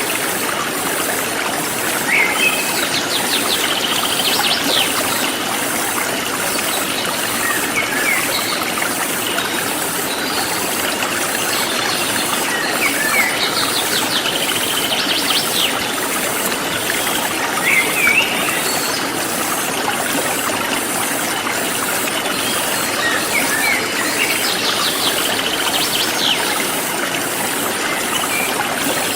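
A forest stream flows steadily, with birds chirping in short bursts of calls every few seconds. Above it runs a fast, evenly pulsing high-pitched insect chirring.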